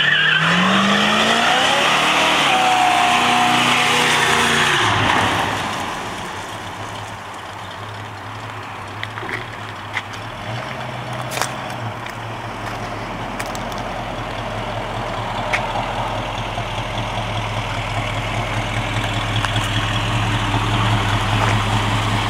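Plymouth Road Runner V8 revved hard in a burnout, its pitch rising, with the rear tyres spinning and screeching for about five seconds. The engine then drops back to a steady, lower running note that slowly grows louder, with a few sharp clicks.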